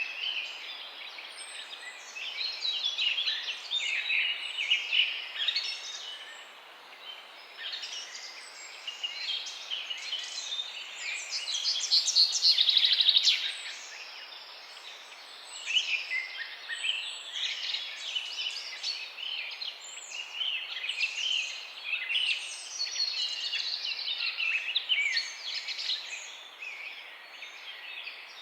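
Morning chorus of many small birds chirping and singing, their short calls overlapping continuously over a faint steady hiss. About halfway through, one bird gives a louder, fast trill lasting about a second and a half.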